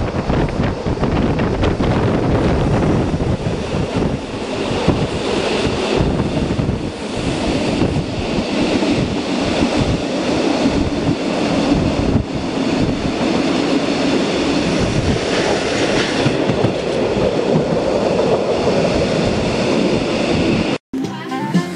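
Electric train running along the track, heard from on board: a steady rumble of wheels on rails with irregular knocks. It cuts off abruptly just before the end, where music begins.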